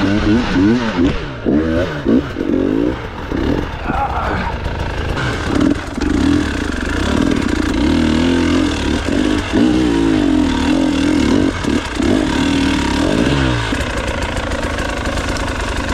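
Hard enduro motorcycle engine revved up and down in quick, uneven throttle bursts, settling to a lower, steadier run near the end.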